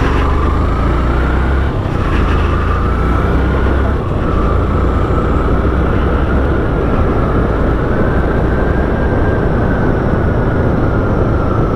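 Vehicle on the move along a road: a steady high whine that drifts slightly in pitch over a continuous low rumble.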